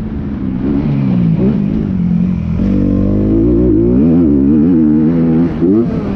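Motorcycle engine running under way, its pitch rising and falling with the throttle, with a sudden jump up in pitch about two and a half seconds in.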